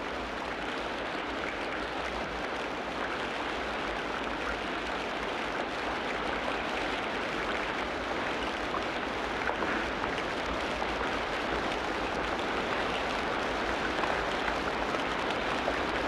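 Steady tropical rainforest rain, an even hiss of rain falling on foliage, with a couple of faint chirps near the middle.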